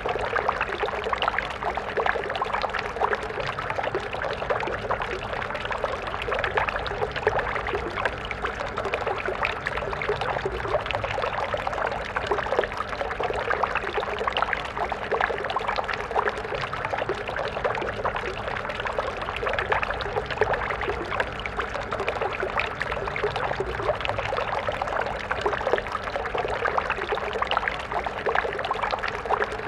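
A small water stream flowing steadily: a continuous rush of water made of many small splashes, unchanging throughout.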